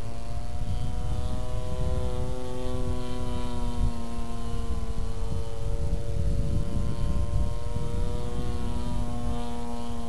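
Giant SPAD-type RC model airplane flying overhead, its engine and propeller droning steadily, the pitch sliding down and then back up as it passes. A constant low rumble lies underneath.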